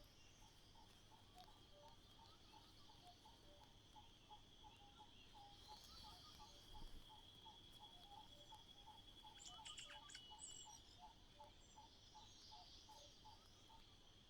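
Faint outdoor ambience: insects trill steadily on one high note, while a short lower note repeats about three times a second. A brief cluster of high chirps and clicks comes a little past the middle.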